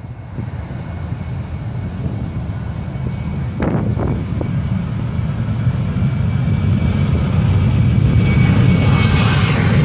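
Boeing 737-800 twin CFM56 jet engines at takeoff power, a low rumble that grows steadily louder, with a rising high-pitched roar near the end.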